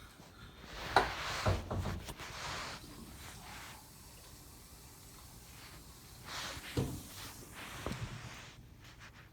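Handling noises: a few sharp knocks and clicks with rustling, in two clusters about five seconds apart.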